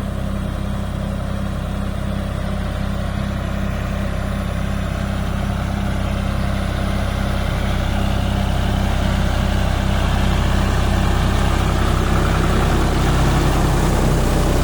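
John Deere tractor's diesel engine running steadily, growing gradually louder toward the end.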